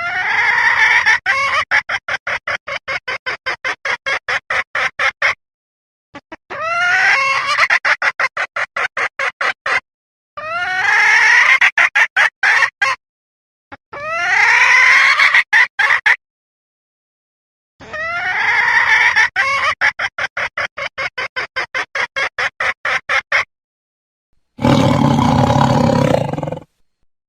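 Animal calls in five separate runs of fast, evenly repeated notes, about six a second, each run opening with a few rising notes. Near the end comes one short, deeper burst.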